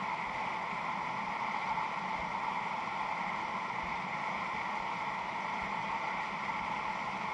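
Steady rush of river whitewater, an even noise with no breaks.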